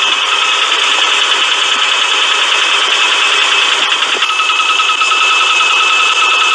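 Car engine running with a fast, steady rattling and clacking, the noise of a loose timing belt tensioner. A steady high whine runs under the rattle.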